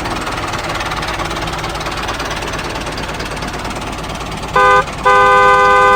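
A small motor runs steadily, then a horn honks twice near the end: a short toot and then a longer blast.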